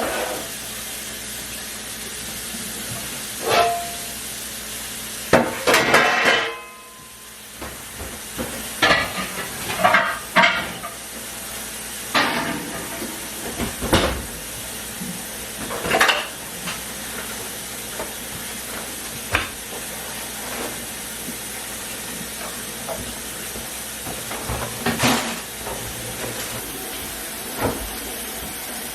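Kitchenware being handled: a dozen or so separate knocks and clinks of dishes and utensils over a steady hiss, which drops away briefly about seven seconds in.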